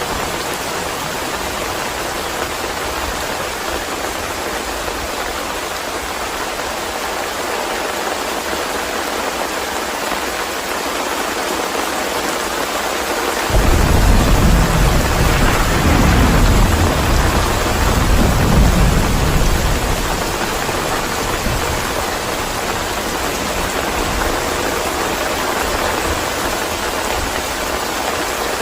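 Steady rain hissing. About halfway through, thunder breaks in suddenly with a deep rumble that lasts around six seconds and fades back under the rain.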